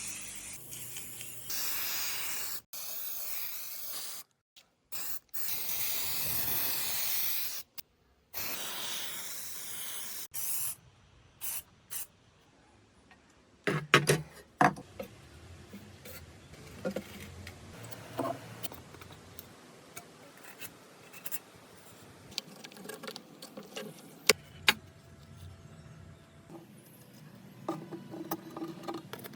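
Hiss of a pressurised spray in several long bursts, each cut off abruptly. About halfway through it gives way to scattered light clicks and knocks of work on the part.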